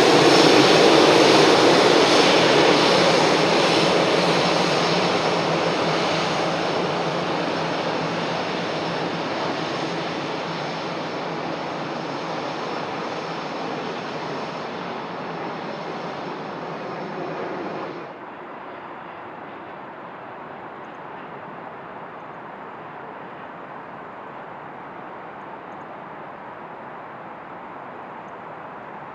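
Airbus A320's twin CFM56 jet engines at takeoff power, the sound fading steadily as the plane climbs away. About eighteen seconds in it drops suddenly to a faint, steady background noise.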